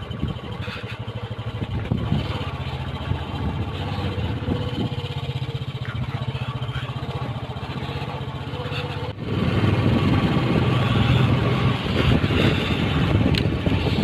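Motorcycle engine running steadily while riding, with road and air noise. About nine seconds in the sound breaks off abruptly and comes back louder.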